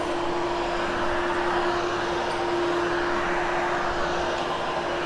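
Hoover Hush Tone upright vacuum running steadily while vacuuming short shag carpet: a constant rushing motor noise with a steady hum.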